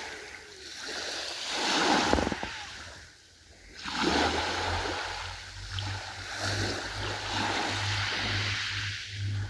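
Sea waves washing in, their noise rising and falling in surges with a brief lull about three seconds in. A low, evenly pulsing hum joins about four seconds in.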